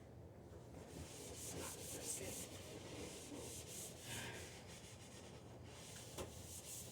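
Scrubbing a refrigerator surface by hand: a faint rubbing in repeated quick back-and-forth strokes, with a small knock near the end.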